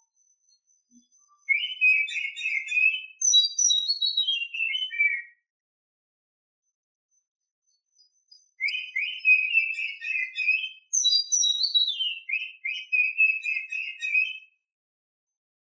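Oriental magpie-robin singing two clear whistled phrases, each a quick run of notes followed by a string of notes falling in pitch. It is presented as a female in breeding condition, the call used to lure and excite males.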